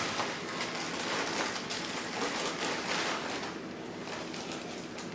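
Plastic packaging crinkling and rustling as it is handled and sealed back up after being torn open, with many small irregular crackles.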